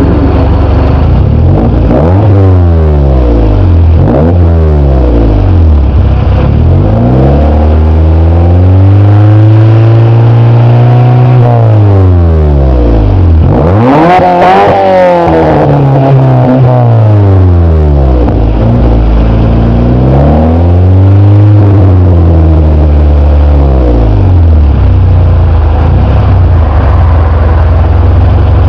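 Honda Accord's F22A4 2.2-litre four-cylinder engine breathing through a Tsudo Type X aftermarket muffler, revved up and let fall back again and again. Some revs are held for a couple of seconds, and the highest comes about halfway through. It settles to a steady low speed for the last few seconds.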